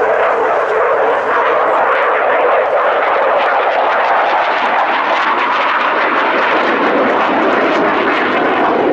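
Fixed-wing aircraft engine noise from a display flight, a loud, steady rushing sound whose pitch sinks slowly as the aircraft passes.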